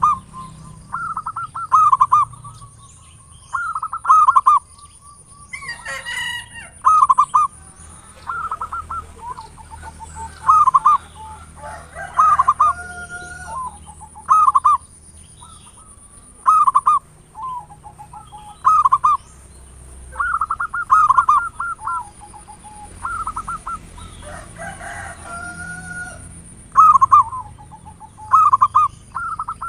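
Zebra doves (perkutut) cooing: short, loud, trilled coos repeated every second or two, with a few longer, different bird calls in between and a faint steady high whine.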